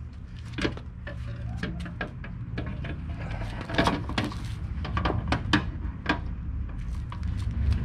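Plastic rail cover being slid and pressed onto a Honda Odyssey sliding door's rear track, with a run of irregular clicks and knocks over a steady low rumble.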